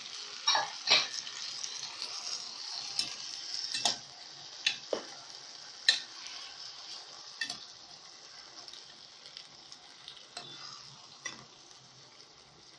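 Browned meat and okra sizzling in a pot with freshly added tomato sauce while a spoon stirs, knocking against the pot several times. The sizzle fades toward the end.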